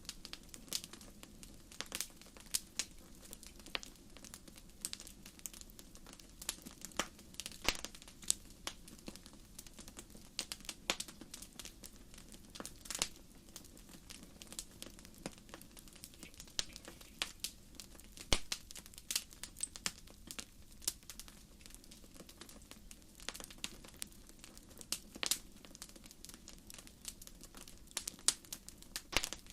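Wood fire crackling: irregular sharp pops and snaps from burning firewood over a steady low noise of the flames.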